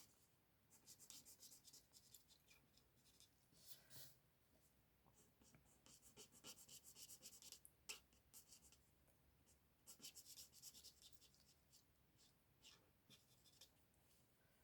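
Faint scratching of a Stampin' Blends alcohol marker tip colouring on cardstock, in runs of short quick strokes with brief pauses between them.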